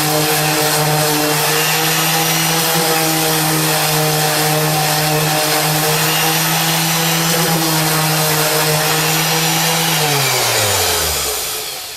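Draper Expert 240V random orbital palm sander running steadily with an 80-grit disc, sanding a piece of wood. About ten seconds in it is switched off, and the motor's pitch falls as it winds down to a stop.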